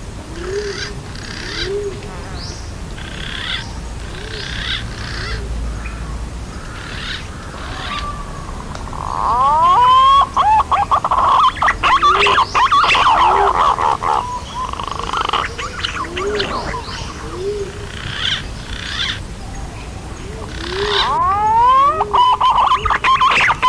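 Recorded green pigeon (punai) calls played as a bird-luring call. Short low rising notes repeat about once a second under scattered higher chirps, and loud runs of rapid rising whistles start about ten seconds in and again near the end.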